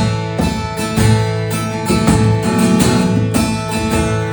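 Acoustic guitar strumming chords in an instrumental break of a worship song, with regular strokes about twice a second.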